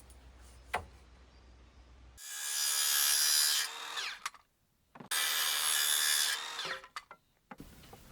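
Power tool working wood in two bursts of about two seconds each, with a steady motor whine under the cutting noise.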